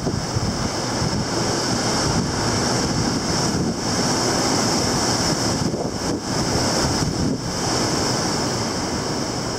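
Heavy typhoon swell breaking as surf on the shore, a continuous rushing of water, with wind buffeting the microphone.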